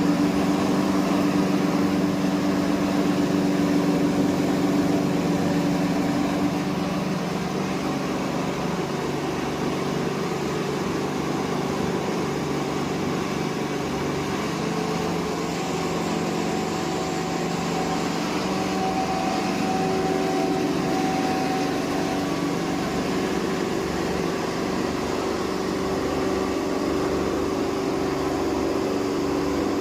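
10 HP hammer mill rice husk grinder running steadily, a continuous machine hum with a rushing whirr. Its tone changes about seven seconds in.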